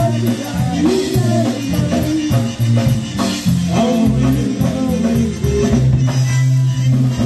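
Live band playing a song, with a drum kit and a low bass line under a melody.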